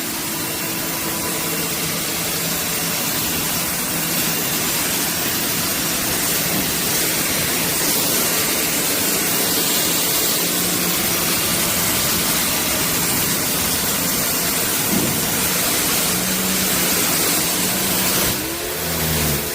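Compact pressure washer running: its pump motor's steady hum under a loud, even hiss of the high-pressure water jet spraying onto a deck. Near the end the hiss drops and the hum wavers in pitch.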